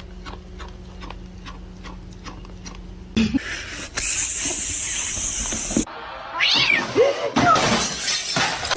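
A domestic cat meowing: a couple of short calls that rise and fall in pitch about two-thirds of the way through. Before them, a stretch of steady loud noise cuts in and stops abruptly.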